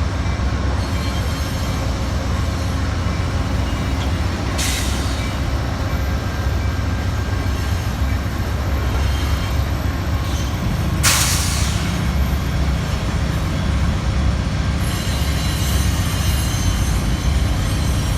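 Amtrak Coast Starlight passenger train rolling into the station with a steady heavy rumble from its wheels and cars. There are two short hisses of air from the brakes, about four and a half seconds in and again around eleven seconds. Thin high brake and wheel squeal sets in near the end as the train slows.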